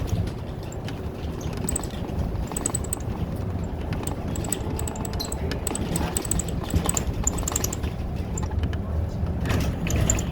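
City bus under way, heard from inside the cabin: a steady engine and road rumble with light, high rattling clicks from interior fittings in short clusters.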